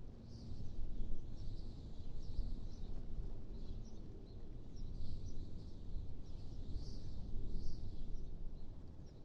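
Wind blowing in gusts, a low rumble that swells and eases every second or two, with small birds chirping over it.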